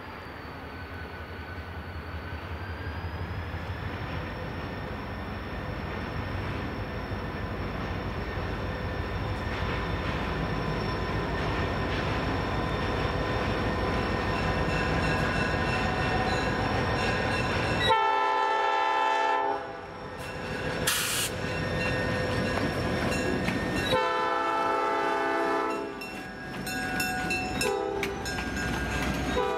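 Diesel locomotive hauling a passenger train approaches, its engine and wheels growing steadily louder. From about eighteen seconds in it blows its horn in several long blasts as it passes close by.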